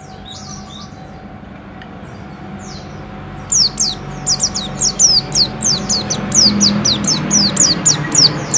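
Pleci (white-eye) singing: soft high twittering, then from about three and a half seconds in a fast, loud run of high notes, each sliding downward, at about five a second.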